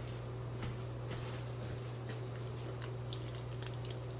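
A steady low hum runs under a few faint, short clicks and taps of ingredients and utensils being handled.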